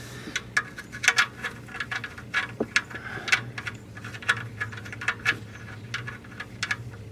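Irregular light clicks and taps of the oil drain plug bolt and its sealing washer being handled, over a steady low hum.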